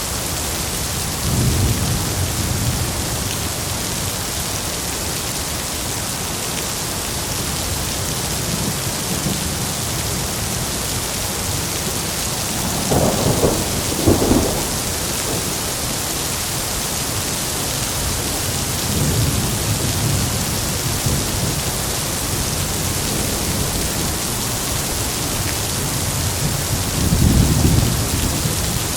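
Heavy rain falling steadily, with several low rolls of thunder near the start, about two-thirds through and near the end. The loudest moment is two sharper thunderclaps close together about halfway through.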